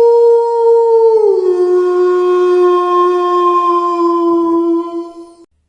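Wolf howling: one long, steady howl that slides down to a lower pitch a little over a second in, holds there, then cuts off shortly before the end.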